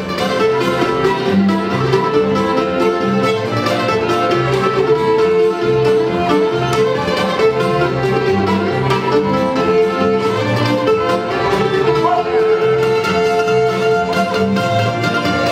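Old-time string band playing a fiddle tune: fiddle carrying the melody over strummed guitar, mandolin and upright bass in a steady rhythm.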